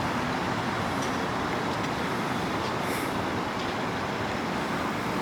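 Steady background road-traffic noise, an even rumble and hiss with no single distinct event.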